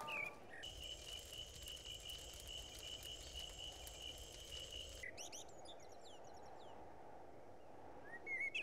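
Faint nature ambience. A steady, unbroken cricket trill runs for about the first five seconds. It stops and gives way to birds chirping in short rising and falling calls, which get louder near the end.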